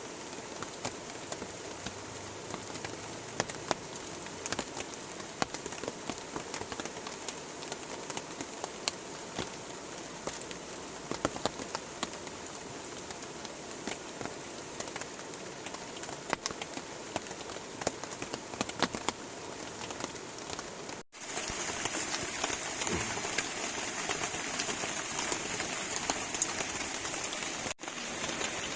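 Heavy rain falling steadily, with many sharp drop taps through it. After a brief dropout about two-thirds of the way through, the rain is louder.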